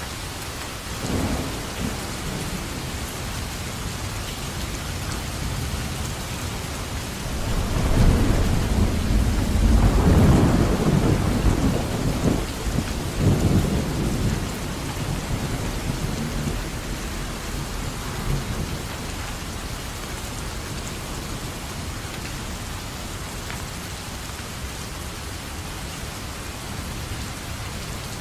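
Steady rain falling, with a long roll of thunder that rumbles in about a quarter of the way through, swells twice and dies away before the middle.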